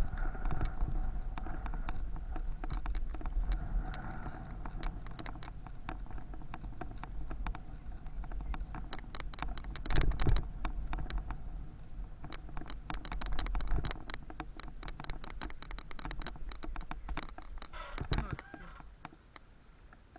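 A bicycle ride heard from the bike: a steady low rumble of wind on the microphone, with many quick, irregular rattling clicks.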